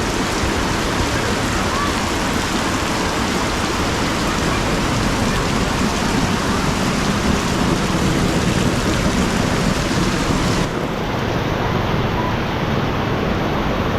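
Heavy rain pouring down, a dense steady hiss of water. About three-quarters of the way through, the highest part of the hiss drops away abruptly.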